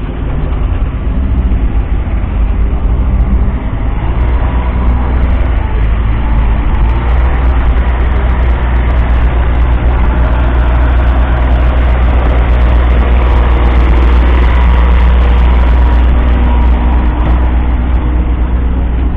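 A 1976 Kenworth W900's 14-litre six-cylinder diesel engine running with a steady, deep rumble. It grows a little louder toward the middle and then eases slightly.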